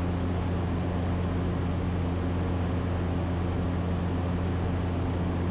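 Ikarus C42 light aircraft's engine and propeller droning steadily in cruise flight, heard in the cockpit as an even, unchanging hum.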